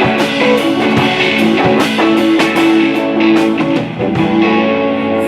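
Live rock band playing an instrumental stretch: electric guitar over a steady drum beat, between sung lines.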